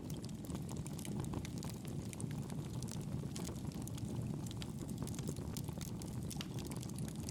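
Campfire burning: a steady low rush of flames with many small, sharp crackles and pops of burning wood scattered throughout.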